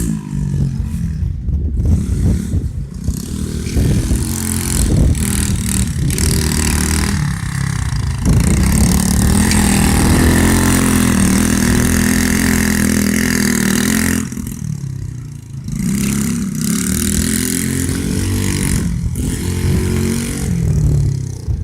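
Pit bike's small single-cylinder engine being ridden, loud, its revs rising and falling repeatedly as the throttle is worked. The revs drop away briefly about 7 seconds in and again about 15 seconds in before climbing again.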